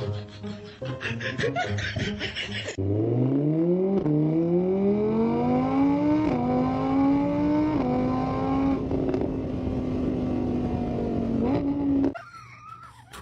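A car engine accelerating hard through the gears: its pitch climbs, drops back at three upshifts, then holds steady before cutting off about twelve seconds in. Before it, for the first three seconds, rhythmic music plays.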